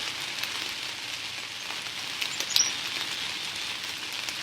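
Steady rain falling: an even hiss with scattered drop ticks, and one sharper click about halfway through.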